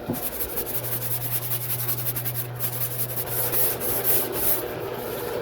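Orbital sander running steadily against the repaired steel bed side panel, a continuous sanding hiss with a low hum that sets in about a second in.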